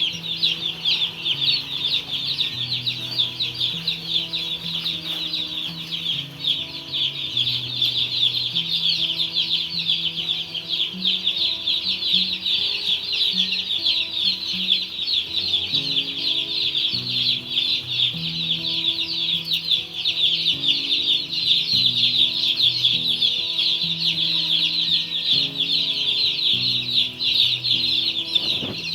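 Dense, continuous peeping of a large flock of young broiler chicks, many high calls overlapping without a break. Soft background music of held low notes plays underneath.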